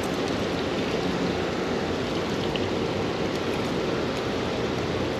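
Steady rush of water noise, even and unbroken, from the flowing creek and rain falling around it.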